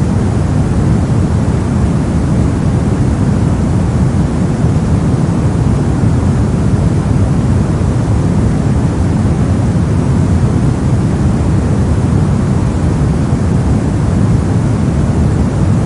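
Brown noise: a steady, unchanging rumbling hiss of random noise, heaviest in the low frequencies and thinning toward the highs.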